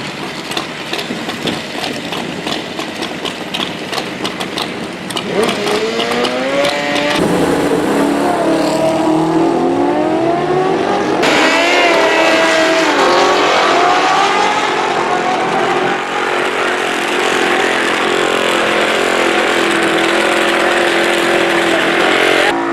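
Drag racing engines revving hard, pitch climbing, dropping at gear changes and climbing again, over a rapid pulsing engine sound at the start. In the last several seconds the engine holds at steady high revs over a loud haze.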